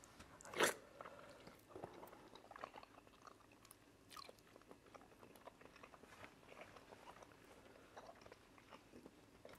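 Close-miked eating of cocoyam fufu and soup by hand: a short, louder mouth sound about half a second in as a lump of fufu goes into the mouth, then soft chewing with many small wet mouth clicks.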